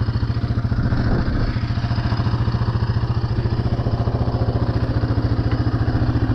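Small off-road vehicle engine idling steadily, with an even, rapid pulse.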